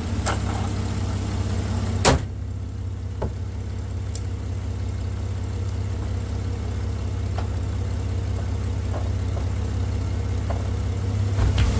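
Jeep Grand Cherokee's rebuilt 4.0 straight-six idling steadily, with a loud single slam of the hood about two seconds in.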